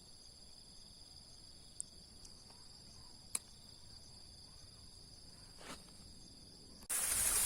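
Insects trilling in several steady high-pitched tones at once, with a few faint clicks. Near the end a much louder rushing noise abruptly takes over.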